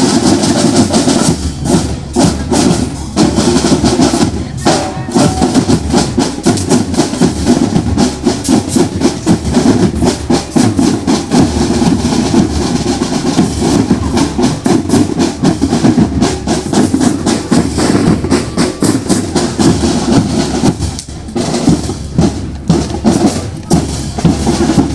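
Percussion-driven music with fast, dense drumming of snare and bass drums, briefly thinning about 21 seconds in.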